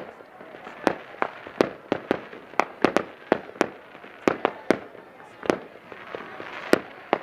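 Fireworks going off in a quick, irregular series of sharp bangs, about two a second, with a faint crackling haze between them.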